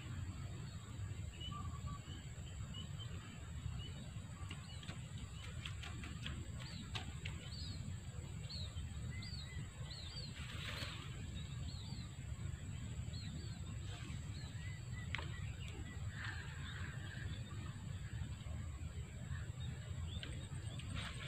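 Wild birds chirping: short, repeated high calls, mostly from about seven to fourteen seconds in. Under them run a steady low rumble and a constant thin high tone, with a few faint clicks.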